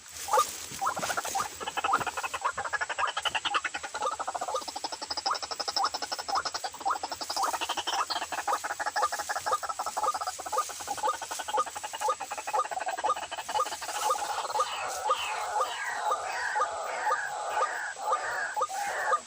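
White-breasted waterhens (ruak-ruak) calling: a long run of rapid, harsh, croaking notes repeated many times a second, growing louder and denser in the second half. A faint steady high-pitched whine runs underneath.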